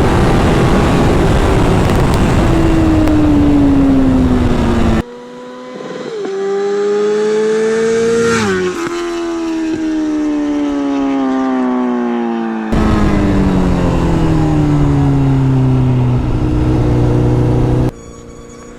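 Several edited clips of a high-revving sport motorcycle at speed. The engine pitch climbs in one clip, then drops steadily as the bike passes, and the loudest clips carry heavy noise under the engine note.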